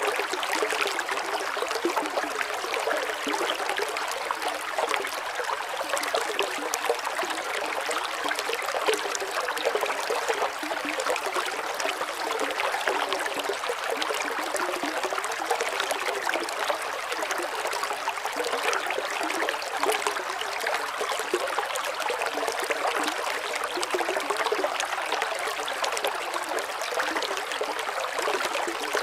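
Water running steadily, a continuous trickling, splashing hiss.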